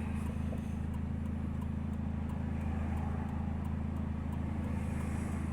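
2000 Nissan Altima with a leaking exhaust, running as a steady low drone; the noise comes from exhaust gases escaping before the end of the system.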